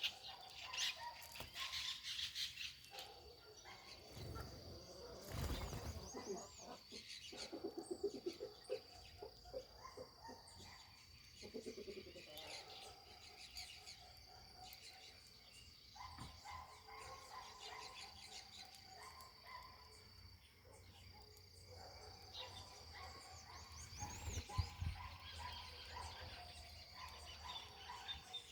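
Small wild birds chirping and calling, with short quick notes scattered throughout. A steady, thin, high-pitched tone runs underneath, and there are a couple of low thumps, one about five seconds in and one near the end.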